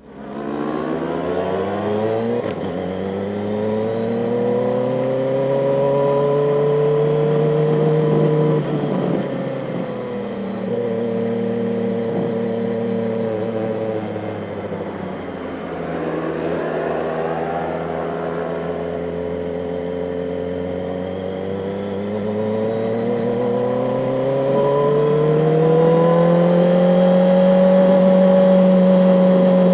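Kawasaki ZX-4RR's inline-four engine running on the move. The revs climb steadily for the first eight seconds or so and fall away, then climb again through the second half and hold steady near the end.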